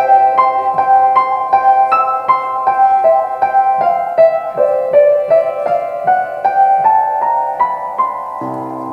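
Piano playing an instrumental passage of evenly repeated chords, about three a second, with the top line stepping gradually upward. Lower notes come in near the end.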